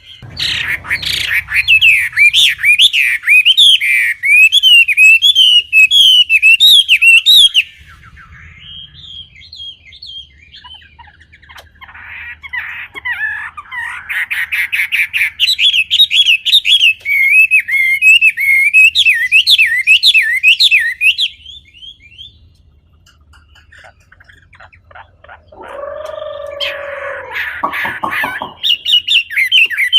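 A wambi bird singing loudly in long runs of fast, repeated chirps that swing up and down in pitch, broken by short pauses. Near the end comes a brief lower-pitched call, before the quick chirping starts again.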